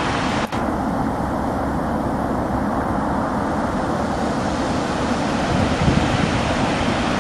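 Steady rushing noise of a waterfall, with a brief dropout about half a second in.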